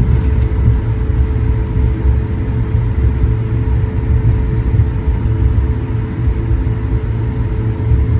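Airbus A220-100 cabin sound while taxiing: the Pratt & Whitney PW1500G geared turbofans run steadily at low thrust with a constant hum, over a heavy low rumble from the airframe and wheels rolling along the taxiway.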